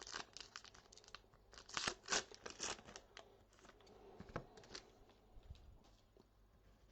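A trading card pack's wrapper crinkling and tearing as it is handled and opened. There is a dense run of crackles over the first three seconds, then a few scattered ones.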